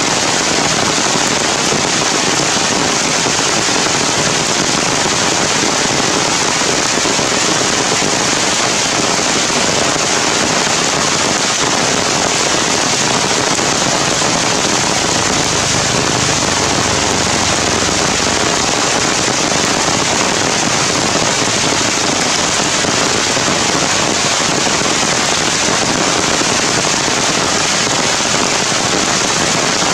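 Heavy rain pouring steadily onto forest foliage: a dense, even hiss of countless drops.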